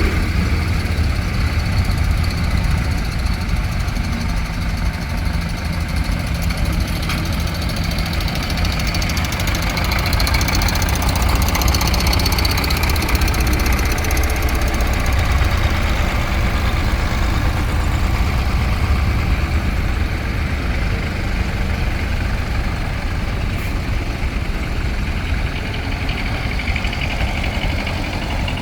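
Tractor engine running steadily, a low rumble that holds throughout without revving.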